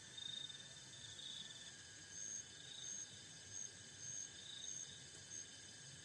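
Insects chirping: short high-pitched calls repeating every half second to a second, with two callers at different pitches, over a faint steady background.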